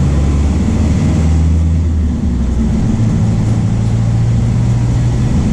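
MAN D0834 diesel engine of a VW 17.230 OD bus running under way. About two seconds in, the engine note dips briefly and then settles at a higher pitch.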